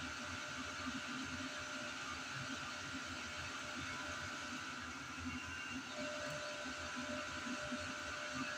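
Chinese diesel air heater running, its blower whirring steadily with a constant whine over it; the tone shifts slightly about six seconds in.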